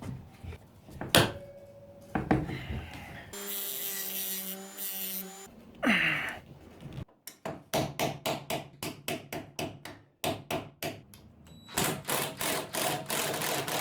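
Rapid hammer strikes on metal, several a second, driving out a seized bolt whose head has been cut off, in the second half after a few scattered knocks. Earlier there is a short stretch of steady whirring for about two seconds.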